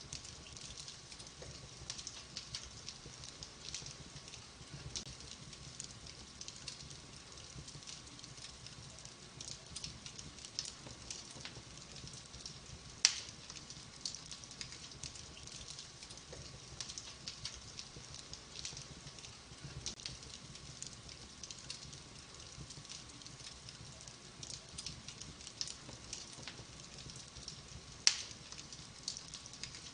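Wood fire crackling in a fireplace: a steady run of small crackles, with two louder pops, one about halfway through and one near the end.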